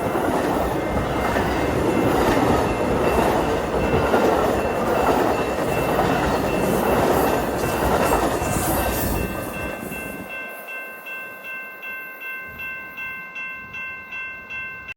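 Train passing with a loud rush of wheels on rail, which fades about ten seconds in. A ringing tone pulsing about twice a second is then left.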